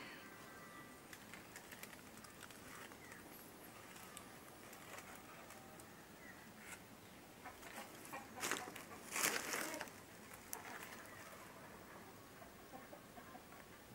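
Faint background of birds chirping now and then, with two brief rustles of handling noise a little past the middle.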